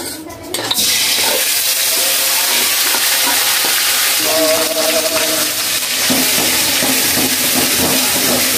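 Garlic, ginger and green chilli paste dropped into hot oil in a black iron kadai: a loud sizzle that starts about a second in and keeps on steadily as the paste is stirred with a metal spatula.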